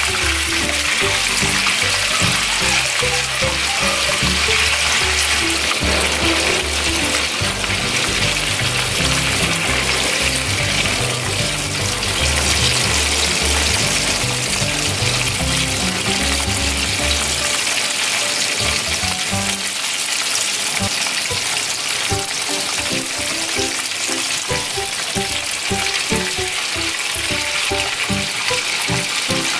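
Crab pieces coated in tapioca starch deep-frying in hot oil in a wok, a steady crackling sizzle.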